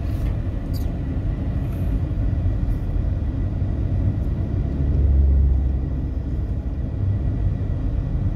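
Steady low rumble inside a car's cabin from the taxi's running engine, swelling louder for about a second around five seconds in.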